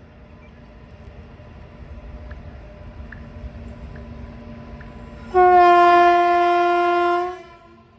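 Goods train locomotive horn giving one steady blast of about two seconds, over a low train rumble that builds before it.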